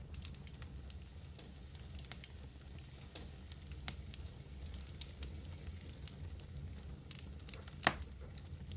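Wood fire of medium-sized logs burning, with a steady low roar under scattered sharp crackles and pops; one louder pop comes near the end.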